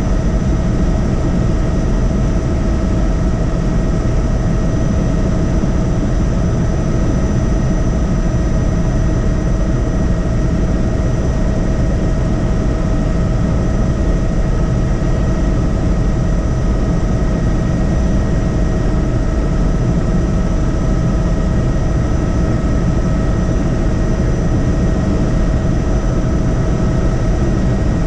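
Helicopter in flight: a steady, loud engine and rotor noise with a constant whine over it.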